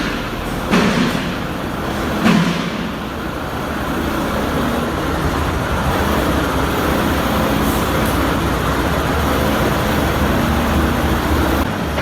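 Scania 142H truck's 14-litre V8 diesel running steadily, with two short knocks in the first few seconds.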